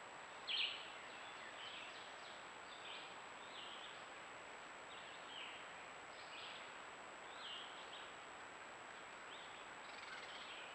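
Short bird calls repeating roughly once a second over a steady hiss of background noise, with one louder call about half a second in.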